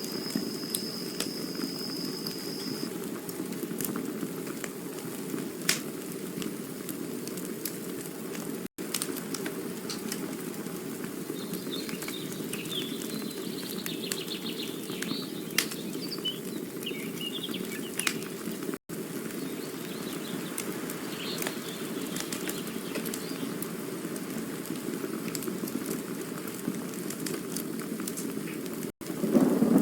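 Campfire burning with a steady low rush and scattered sharp crackling pops. A thin high whistle stops about three seconds in, and a few faint chirps come through around the middle. The sound cuts out for an instant three times.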